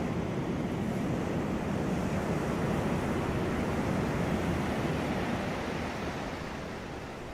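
Ocean waves washing onto a beach: a continuous surf rush that swells in the middle and eases off near the end as the wave recedes.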